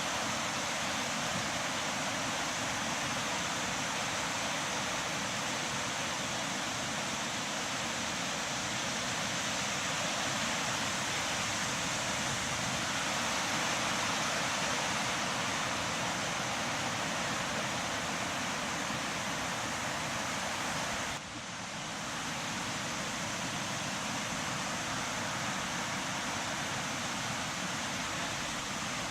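Steady rushing noise that drops out briefly about twenty-one seconds in.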